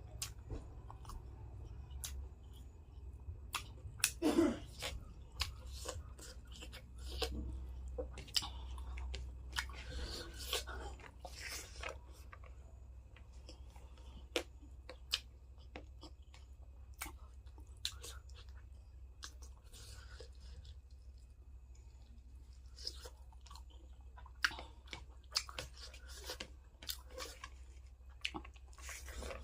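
Close-up chewing and crunching of a meat-and-rice meal, with many short crisp mouth clicks and crunches coming in irregular clusters over a steady low hum.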